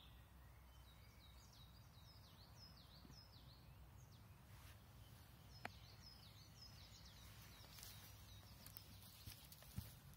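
Faint birdsong over a quiet outdoor background: a small bird sings two runs of quick, repeated chirping notes, with a few faint clicks in between.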